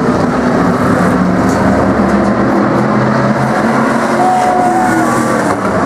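Race car engines running together on a short oval track, a loud, steady blend of engine noise. A short steady high tone sounds for under a second near the middle of it.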